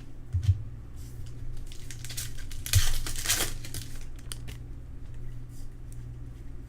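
Plastic trading-card pack wrappers crinkling and tearing as packs are ripped open. The crinkling is loudest for about a second and a half near the middle, with a few light clicks around it.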